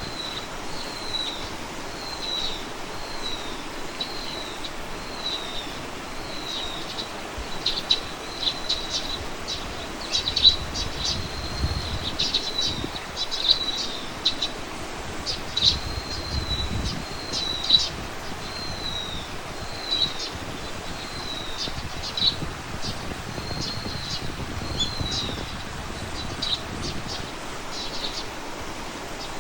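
Wild birds calling: one bird repeats a short high note about once a second, while quick sharp chirps come in and out over a steady background hiss.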